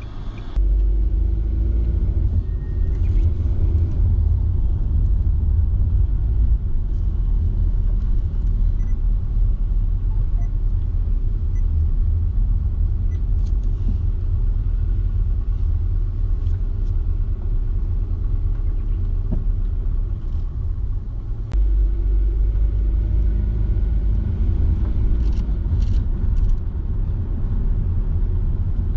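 A car being driven: the steady low rumble of engine and tyres on the road, with a few faint ticks.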